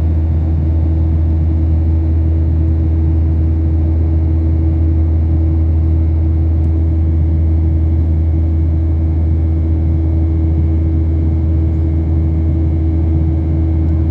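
Steady drone of a Boeing 737-800's CFM56 jet engines heard inside the passenger cabin: a deep hum with a steady higher tone above it, unchanging throughout.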